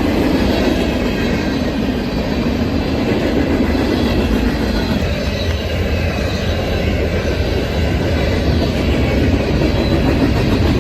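A train running past at close range: a steady, loud rumble of rolling rail wheels.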